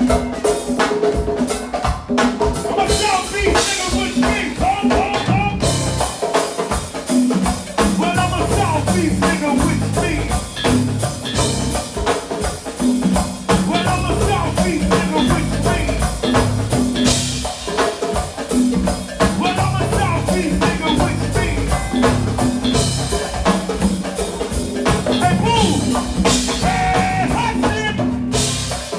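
Live go-go band playing a steady drum-kit groove with bass and a vocal line over it.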